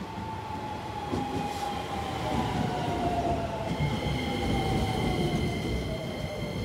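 Keisei 3000-series electric commuter train pulling into the station and slowing: a rumble of wheels on rail that grows louder, with a whine that falls steadily in pitch as it brakes. Higher steady tones join about halfway through as it slows further.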